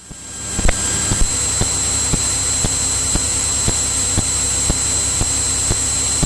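Steady cockpit drone of a Cirrus single-engine piston aircraft in cruise, as picked up through the headset/intercom audio, with faint regular clicks about twice a second. The noise swells back in over the first second after a radio transmission ends.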